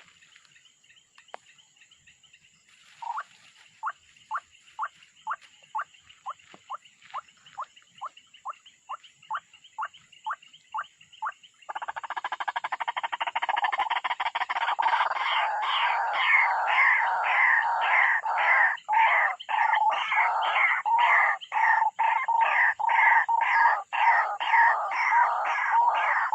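Bird calls: a run of short, falling notes, about two a second. About twelve seconds in, a much louder, dense chatter of rapid repeated calls cuts in and keeps going.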